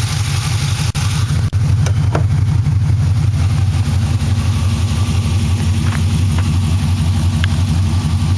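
GM LS3 V8 idling steadily through stainless long-tube headers, X-pipe and dual mufflers, a deep, even exhaust pulse. The level dips briefly twice about a second in.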